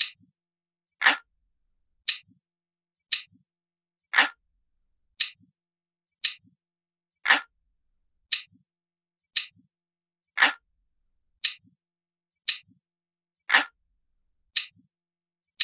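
Glass-like clock ticking sound, crisp and light, at about one tick a second; every third tick is louder and fuller than the two between.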